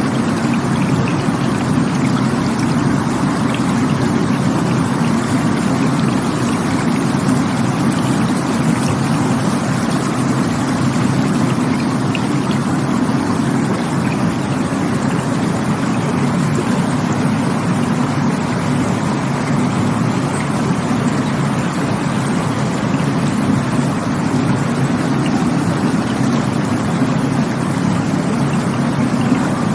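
Rushing stream water flowing steadily.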